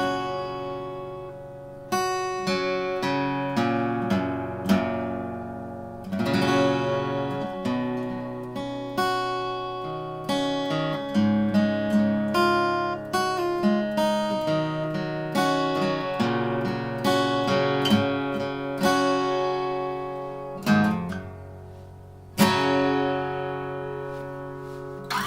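Seagull Entourage acoustic guitar with a solid spruce top, strummed and picked through a chord progression, each chord struck and left ringing out.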